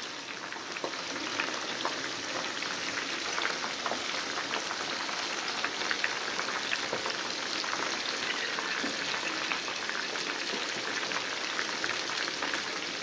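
Chicken pieces frying in hot oil in a pan: a steady crackling sizzle with many small pops.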